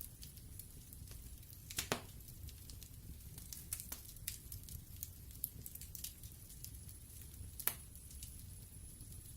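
Wood fire burning in a fireplace: a low steady rumble of flames with scattered sharp crackles and pops, the strongest about two seconds in and again near the end.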